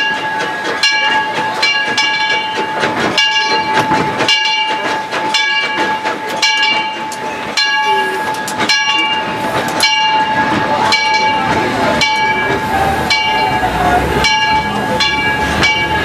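Steam locomotive running, heard from its cab: a regular knocking about one and a half times a second over a constant high tone.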